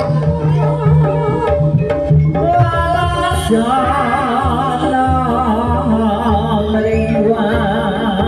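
Live Javanese jaranan (kuda lumping) music: a singer's wavering melody over hand-drum (kendang) strokes and the ensemble's accompaniment, loud and continuous.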